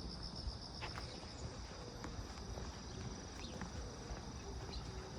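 Footsteps of someone walking on a forest road, as a string of light, irregular steps, over a steady high chorus of insects chirring in the background.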